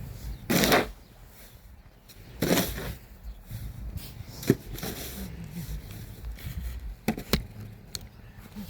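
Snow shovel scraping through snow in two strokes about two seconds apart, followed by a few sharp knocks.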